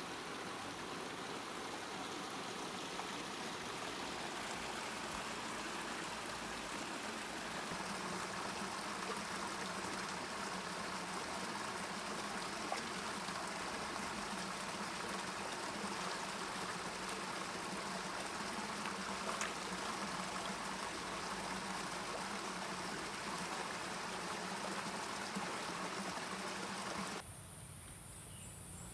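Steady rush of flowing stream water, cutting off suddenly near the end.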